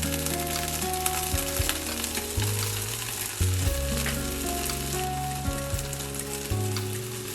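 Food sizzling and crackling in a hot frying pan as it is stirred and stir-fried.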